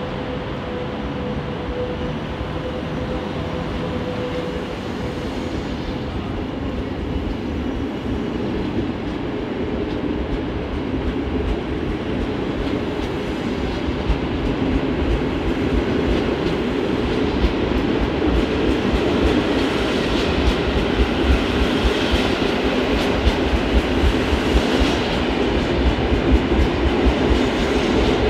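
Train moving through the station with its wheels clattering over the rails, growing louder toward the end. A steady hum at the start fades within the first few seconds.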